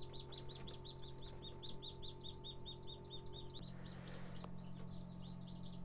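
A small bird chirping in a rapid, regular series of high-pitched chirps, about seven a second, over a low electrical hum. The chirps grow fainter about three and a half seconds in.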